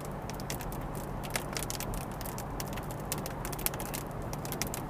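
Light rain hitting a moving car's windshield and roof: irregular sharp ticks of single drops over the steady low hum of the car driving.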